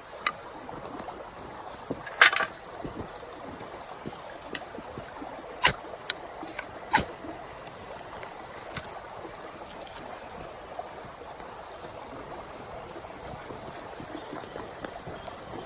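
Mountain stream flowing steadily, with a handful of sharp knocks over the first nine seconds, the loudest about two seconds in.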